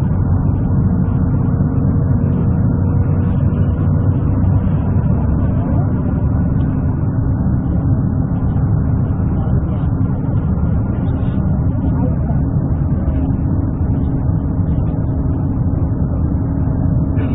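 Steady low rumble of motor vehicles, with no distinct starts or stops.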